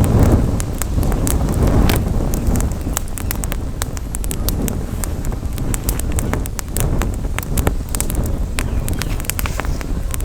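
Campfire crackling, with many sharp pops and snaps at an uneven rate, over a low rumble of wind on the microphone that is strongest in the first couple of seconds.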